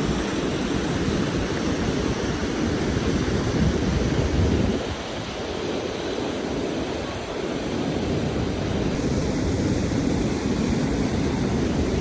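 Steady rushing of water, dipping a little in level about five seconds in before returning.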